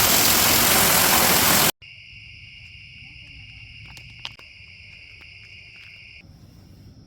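A loud, even rushing noise cuts off abruptly under two seconds in. It gives way to a much quieter, steady high-pitched insect trill, like crickets at night, with a few faint clicks. The lower of its two pitches stops about six seconds in.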